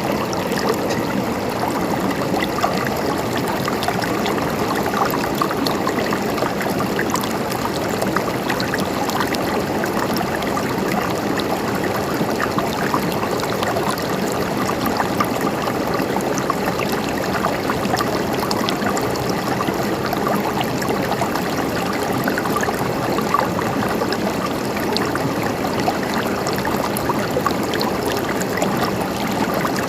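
Stream water flowing and gurgling, a steady, even rush with small splashes throughout.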